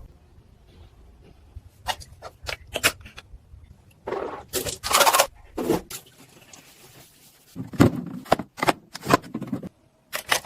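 Irregular knocks, clicks and scrapes of objects being handled, with a longer rasping scrape about four seconds in and a quick run of knocks near the end.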